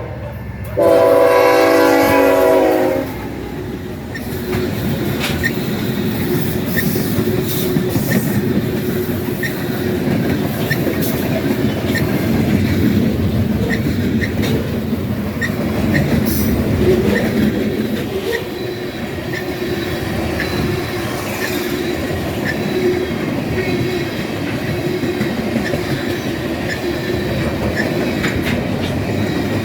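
A diesel locomotive's horn sounds one blast of about two seconds, starting about a second in. Then the train rolls past with a steady rumble and a regular clicking of wheels on the rails.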